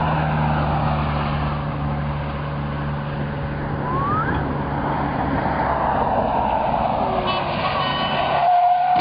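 Road vehicle engine running steadily amid road noise, with a short rising tone about four seconds in.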